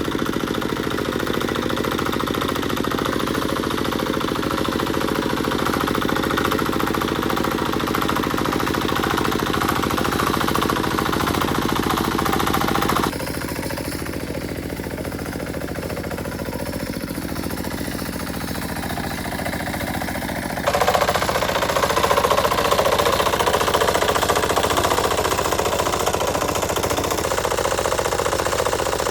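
Engine running steadily with a fast, hammering beat. The sound drops and turns duller abruptly about thirteen seconds in, then returns louder and brighter about twenty-one seconds in.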